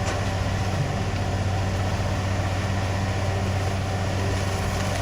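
Heavy machine's engine running steadily at a constant speed, with a steady low hum.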